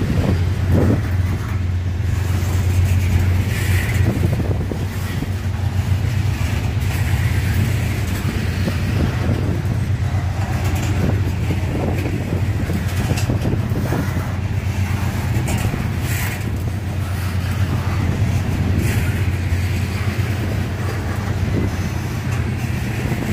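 Freight train of steel coal gondola cars rolling past at speed: a steady low rumble of wheels on rail, with irregular clicks and clatter as the wheels run over the rail joints.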